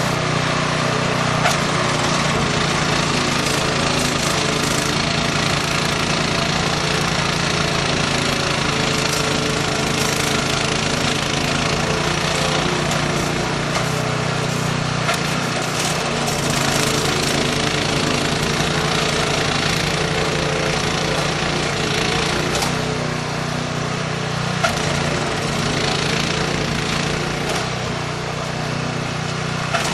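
Engine of a snow-clearing machine running steadily at constant speed.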